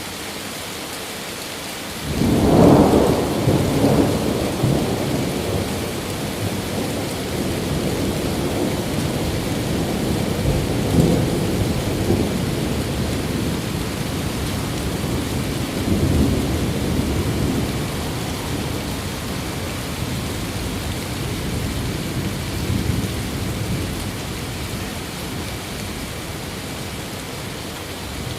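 Steady rain falling, with a long thunder roll that breaks in suddenly about two seconds in, rumbles on with further swells, and fades slowly toward the end.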